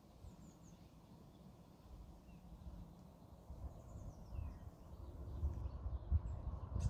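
Small birds chirping faintly in short scattered calls, over a low rumble that grows louder from about two seconds in, with a sharp click right at the end.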